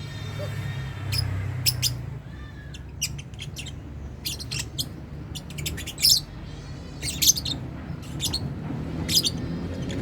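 A colony of lovebirds giving many short, shrill chirps, some in quick clusters, over a low steady hum.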